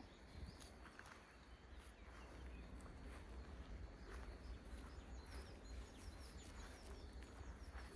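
Faint outdoor farm ambience: a low, steady rumble with small birds chirping faintly, a few quick chirps in the second half.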